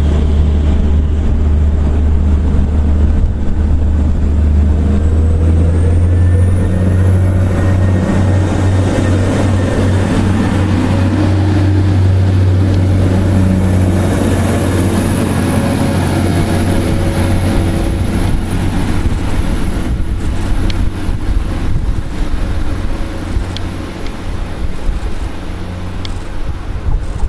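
Diesel passenger train's engine running loudly at close range with a deep steady hum, rising in pitch about five seconds in as it takes power, then gradually quieter later on.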